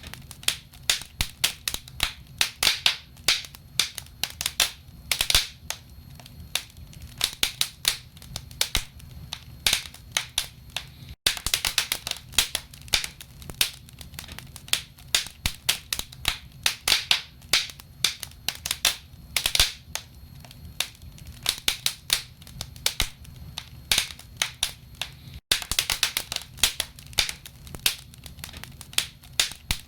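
Wood fire crackling in a fireplace: burning logs giving off dense, irregular pops and snaps over a low steady rumble.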